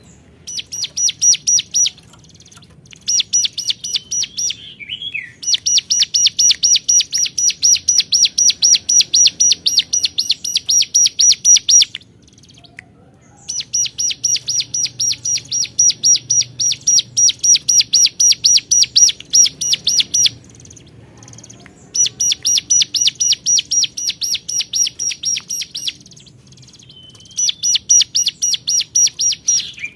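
Ciblek gunung (hill prinia) singing: long runs of rapid, evenly repeated sharp high notes, several seconds each, broken by short pauses, with a brief wavering note twice. This is the loud, persistent 'gacor' calling that is used to challenge a rival.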